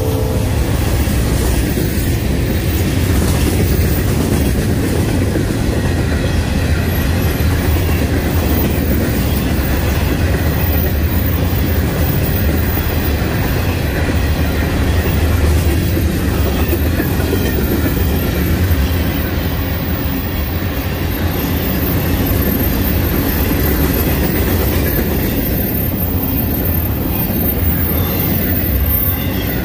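Freight train cars rolling past close by: a steady, loud rolling noise of steel wheels running on the rails.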